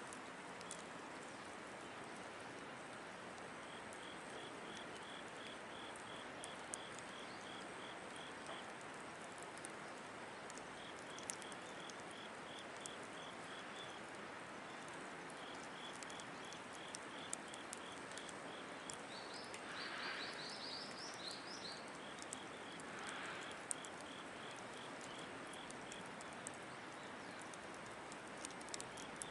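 Firewood burning in a Picogrill 760 fire pit, crackling with scattered sharp pops over a steady faint hiss. An insect chirps in repeated short trains of high pulses, and a bird gives a brief run of rising calls about two-thirds of the way in.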